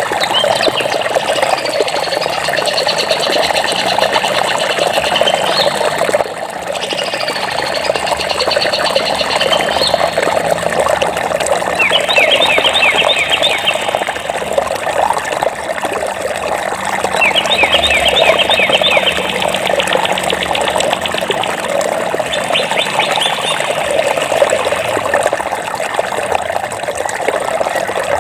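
Steady rush of flowing water with birds calling over it in several spells of rapid, high trilling chirps. About six seconds in, the sound dips for a moment.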